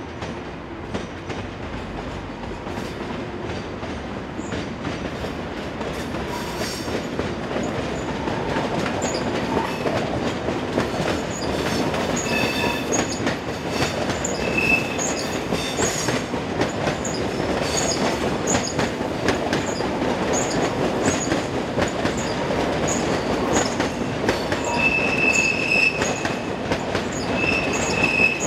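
Double-deck IC 2000 passenger trains rolling slowly over station pointwork: a steady rumble of wheels on rail that grows louder over the first several seconds, with rapid clatter over the switches and short high-pitched wheel squeals, several of them near the end.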